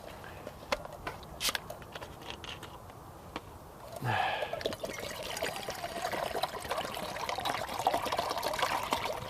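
Water being poured into the pot of a small camping gas cook set, a steady pour lasting about five seconds, preceded by a few handling clicks.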